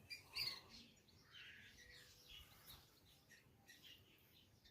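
Near silence, with a few faint, high chirps of small birds, clearest about half a second in.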